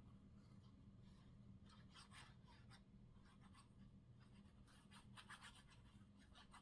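Near silence with faint, scattered scratching and rustling of paper being handled.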